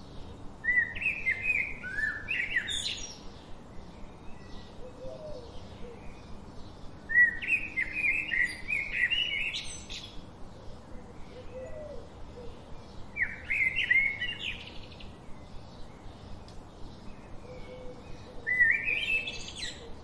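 A songbird repeating one song phrase four times, about every six seconds, each a quick run of notes that climbs in pitch. A soft ticking runs underneath, about three ticks a second.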